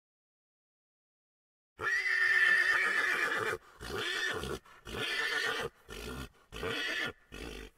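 A horse whinnying, starting about two seconds in: one long, loud call, then a run of five shorter, broken pulses.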